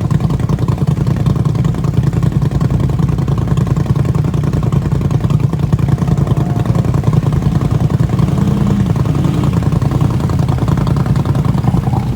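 An engine running steadily at an even speed, its rapid firing pulses loud and unbroken throughout.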